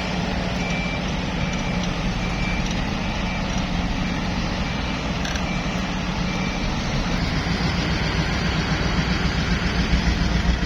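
Dump truck reversing: its back-up alarm beeps steadily, about one and a half times a second, over the low running of its diesel engine. The beeping stops about two-thirds of the way in and the engine grows louder toward the end.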